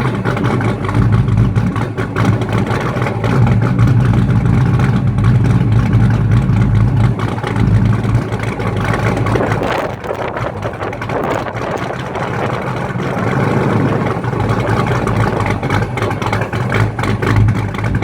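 Fox-body Ford Mustang engine idling loudly after a cold start, a steady deep exhaust rumble. The low rumble eases somewhat about ten seconds in.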